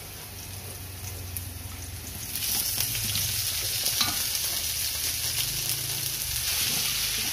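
Pre-fried chicken pieces going into a stainless steel wok of sautéed garlic and bell pepper: the oil sizzles, the sizzle jumps louder a couple of seconds in, and a metal spatula clicks and scrapes against the pan as the chicken is stirred. A steady low hum runs underneath.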